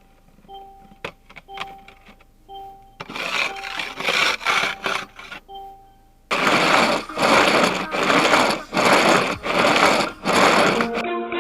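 Rhythmic hand scraping, about one and a half strokes a second, which turns loud about six seconds in. A faint two-note electronic beep repeats underneath, and music starts near the end.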